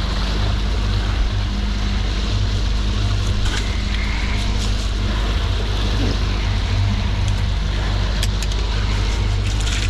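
A boat's motor running steadily with a low hum, with a few light clicks and knocks over it.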